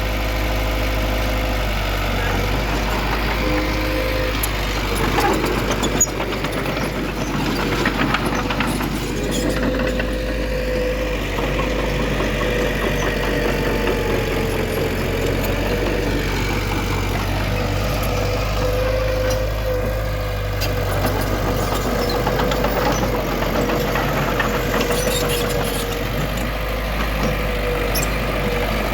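Diesel engine of heavy earthmoving machinery running steadily, with a steady whine over a low rumble. A few sharp clanks come about five to nine seconds in and again near the end.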